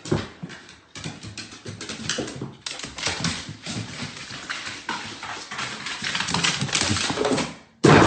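A dog moving about and making small noises, with many quick irregular clicks and taps.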